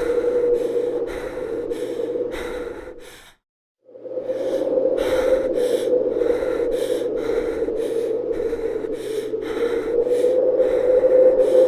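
Stock tornado sound effect: a steady, dense rushing noise that pulses about two to three times a second. It cuts out completely for about half a second around three seconds in, then resumes.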